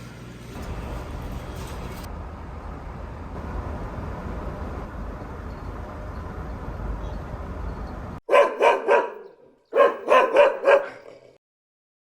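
Golden retriever barking in two quick runs of several loud barks, starting about eight seconds in. Before the barks there is a steady rushing background noise.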